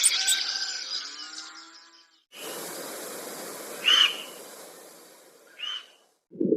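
A sound fading away, then a steady hiss with two short animal calls about a second and a half apart.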